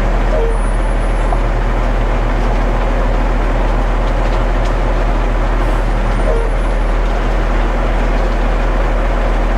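Concrete mixer truck's diesel engine running steadily, with the emptied drum turning and no longer rattling.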